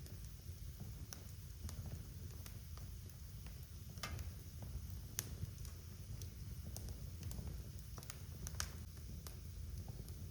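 Wood fire burning in a fireplace: a steady low rumble of flames with irregular sharp crackles and pops, the loudest about four, five and eight and a half seconds in.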